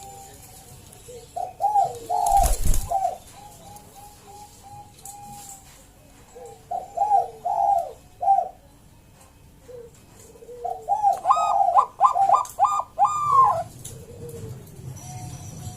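Zebra dove (Bangkok-bred perkutut) singing: three bursts of rapid, clipped cooing notes with softer coos between them. A single sharp knock sounds about two and a half seconds in.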